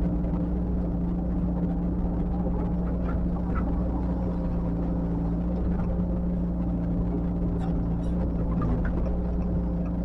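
Heavy construction machine's diesel engine running steadily at an even speed, with a few faint light ticks.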